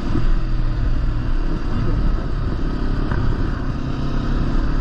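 Kawasaki Versys-X 300's parallel-twin engine running steadily while the motorcycle rides along a muddy dirt trail, with a constant low rumble underneath.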